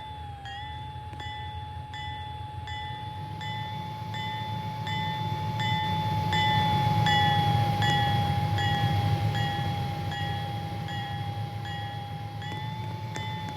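Railroad grade-crossing bell ringing steadily with evenly spaced strikes, over the low rumble of a passing freight train that grows loudest about halfway through and then eases off.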